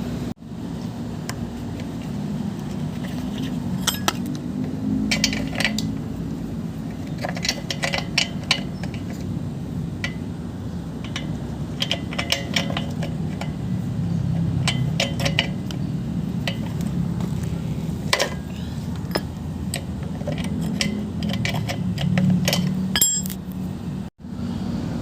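Metal tools and small metal parts clinking and tapping in irregular clusters over a steady low hum.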